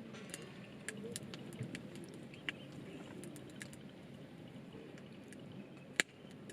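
Scattered sharp clicks and taps over a steady low background rumble, with one louder crack about six seconds in.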